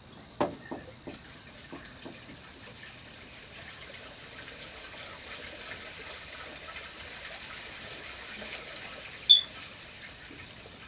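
1986 Hunter Studio Series ceiling fan, built on a full-size 52-inch motor, running with a steady rush of air that slowly builds. A run of fading ticks comes in the first two seconds, and there is one short, high squeak near the end.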